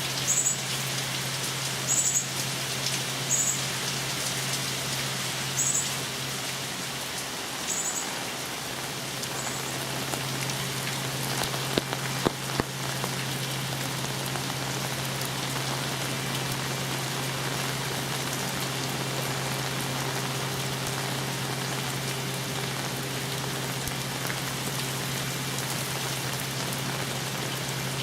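Steady hurricane rain falling, with a low steady hum underneath. A short high chirp repeats every second or two through the first ten seconds, and a few sharp taps come about twelve seconds in.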